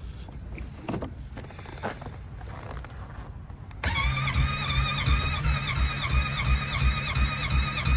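Quad (ATV) engine cranking on its electric starter in extreme cold without catching. Starting about four seconds in, the starter whines steadily over slow, even chugging.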